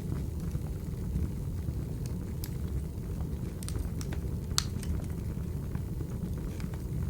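Wood fire burning: a steady low rumble of the flames with scattered sharp crackles and pops, one louder pop a little past halfway.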